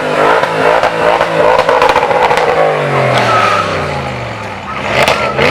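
A supercar's engine revving hard as the car accelerates past, its pitch climbing and then sliding down as it goes by, with another burst of revving near the end.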